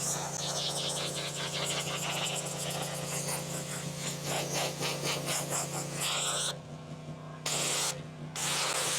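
Craftsman pressure washer running steadily with a constant low hum and a hissing spray. The hiss cuts out briefly twice near the end while the hum carries on.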